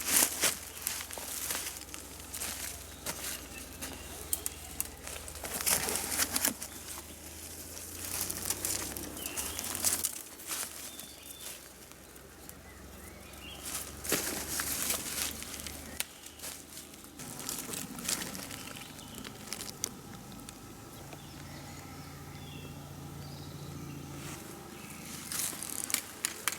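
Irregular rustling and crackling in dry forest-floor litter, coming in bursts every few seconds, with faint bird chirps in the background.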